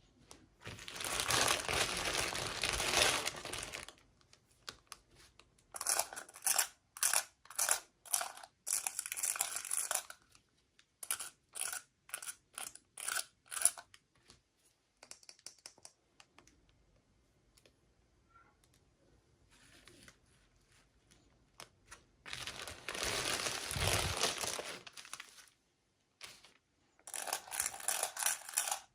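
Toy packaging being torn open and crinkled by hand: a long tearing rip near the start, a run of short crinkling rustles, a quiet pause, another long rip, and more crinkling near the end.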